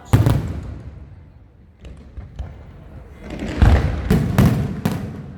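Aerial firework shells bursting with deep booms: one just after the start, a few faint pops around the middle, then four or so loud bursts in quick succession near the end.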